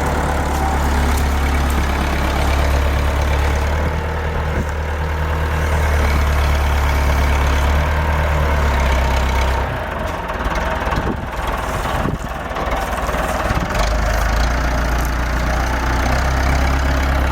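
Tractor engine running steadily with a deep, low rumble. The rumble drops away for a few seconds about ten seconds in, with a couple of knocks, then returns.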